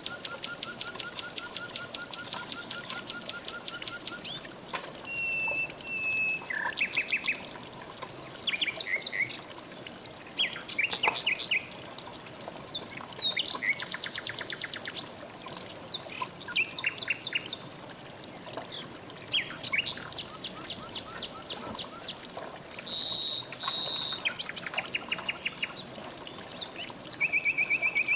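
Several songbirds singing and calling at once: fast rattling trills, a long even trill in the first few seconds, and short clear whistles and chirps, some overlapping. Under them runs a steady hiss of flowing river water.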